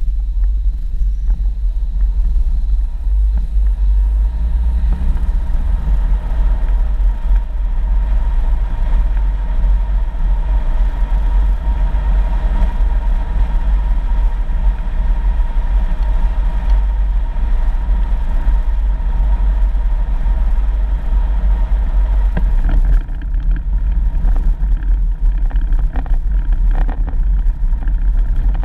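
A 4x4 vehicle driving on a dirt road: a steady low rumble of engine and tyres. In the last few seconds there are short knocks and rattles.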